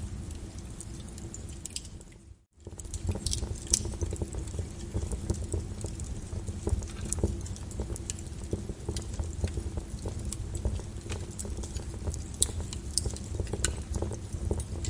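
Fireplace fire crackling and popping, with irregular sharp crackles over a low steady rumble. The sound dips away to near silence for a moment about two seconds in, then resumes.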